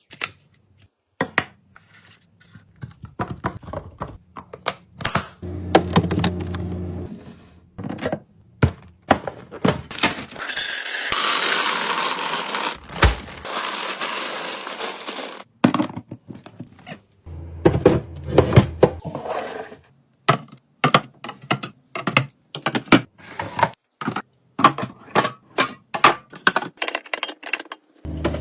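Clicks, taps and thunks of plastic containers, jars and lids being handled, opened and set down while restocking a fridge. In the middle comes a few seconds of steady hissing noise.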